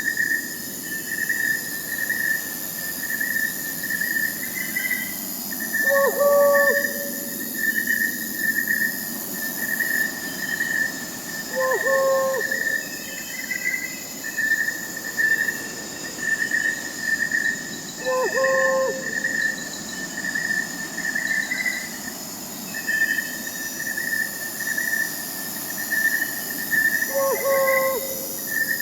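Night forest ambience: crickets chirping in a steady pulsing chorus with higher insect trills above, and an owl giving a short hoot about every six seconds, four times.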